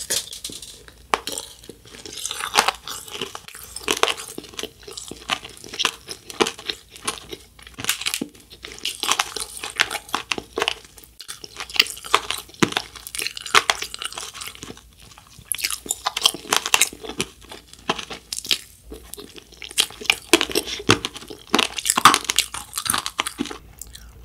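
Close-miked mouth chewing and crunching an Earth jelly gummy coated in crunchy Galaxy Candy sprinkles: dense, irregular crunches mixed with wet chewing.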